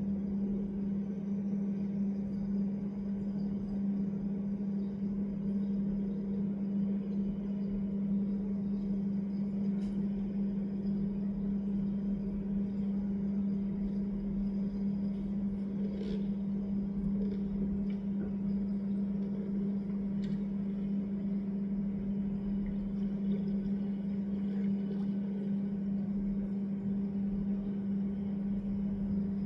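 A steady low hum on one unchanging pitch over a faint wash of noise, with a few faint ticks.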